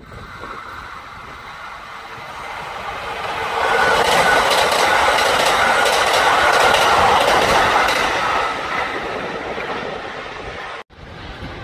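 Kintetsu electric train passing, growing louder over a couple of seconds, its wheels clicking rapidly over rail joints with a steady whine, then fading and cutting off abruptly near the end.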